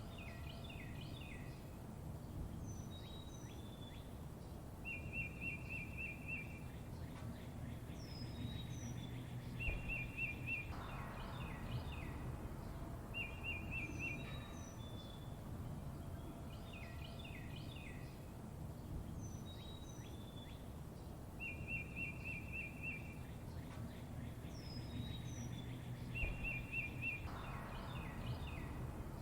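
Small songbirds chirping and trilling: short rapid trills, quick falling chirps and single high notes, over a steady low rumble of background noise. The same sequence of calls comes round again about every 16 seconds.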